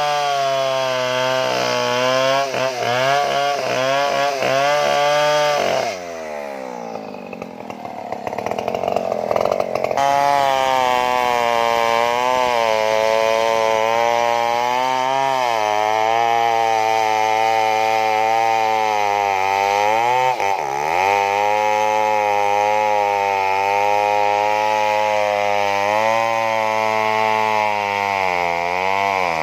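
Stihl two-stroke chainsaw cutting into a large tree trunk at high revs. About six seconds in, the engine drops toward idle and goes quieter for a few seconds. It then revs back up and runs steadily, with brief dips in pitch as it bogs in the cut.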